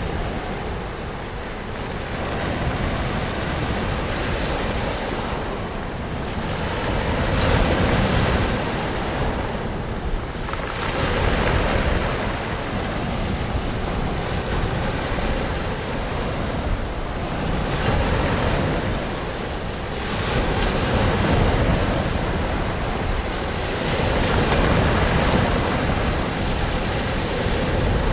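Ocean waves breaking and washing in, a continuous rush of surf that swells and eases every few seconds.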